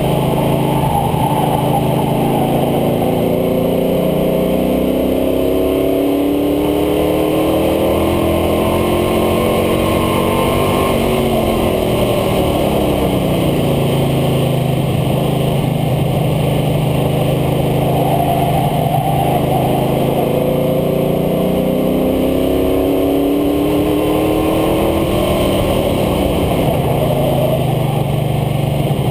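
International Harvester Scout II's engine running hard on a racetrack, with steady wind and tyre noise heard from the front air dam. The engine pitch climbs for several seconds and falls off about halfway through, holds low, then climbs again and drops near the end: accelerating down the straights and lifting for the corners.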